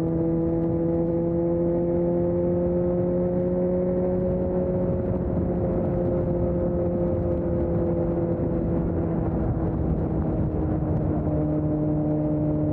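Suzuki GSX-S750's inline-four engine through a Storm aftermarket exhaust, running steadily under way, its note rising a little in the first few seconds and then easing slowly lower, over a haze of road and wind noise.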